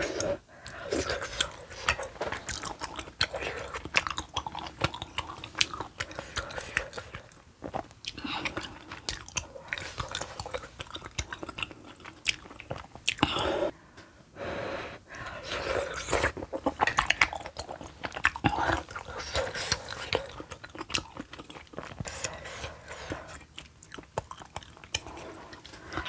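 Close-miked chewing and biting of spicy kimchi stew with pork, tofu and hand-torn sujebi dough: wet, smacking mouth sounds with some crunching, in irregular bites.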